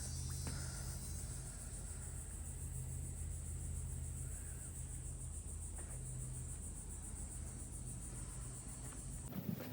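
Crickets chirring in a steady, high-pitched drone over a low steady hum. Both cut off suddenly near the end.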